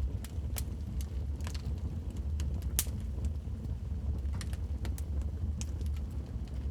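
Fireplace fire crackling: irregular sharp pops and snaps, one louder snap near the middle, over a steady low rumble.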